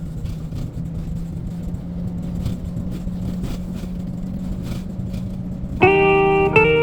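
A car running with a steady low drone. Plucked guitar music comes in near the end.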